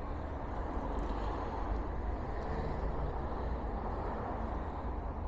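Wind buffeting the microphone in strong gusts, a steady low rumble, with road traffic noise.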